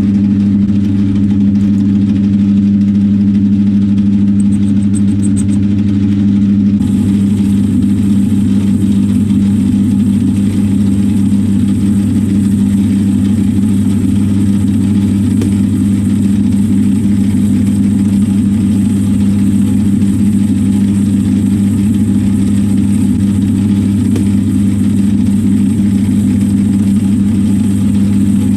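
Metal lathe running steadily with a strong, even motor hum while facing a brass bar. About seven seconds in, a thin high whine joins the hum.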